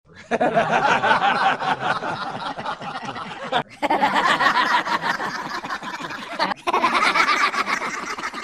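People laughing in quick, pulsing bursts, in three separately spliced clips that cut off abruptly, twice.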